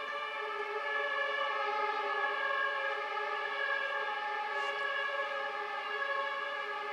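Arriving electric passenger train drawing slowly into the station, giving a steady electric whine made of several held tones at once.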